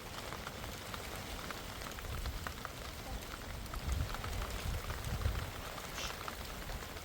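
Steady rain pattering, with scattered drop ticks and a few low rumbles about four to five seconds in.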